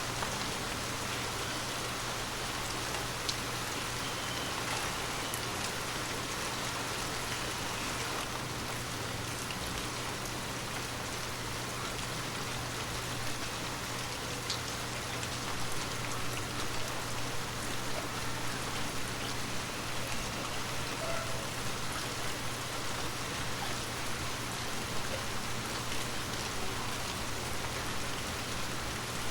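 Heavy rain falling steadily, a dense even hiss with scattered sharper drips and drop ticks.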